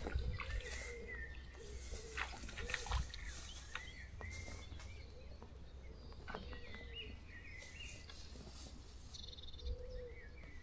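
Birds calling with short repeated chirps, with a few faint clicks or knocks in the first few seconds.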